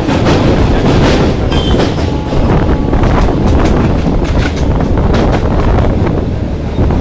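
A local passenger train running along the track: a heavy low rumble with the wheels clattering over rail joints, and wind buffeting the microphone.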